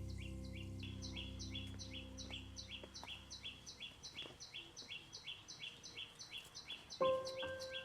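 A bird chirping over and over in a fast, very regular rhythm, alternating a higher and a lower note. About seven seconds in comes a single sharp clink that keeps ringing, the loudest sound here.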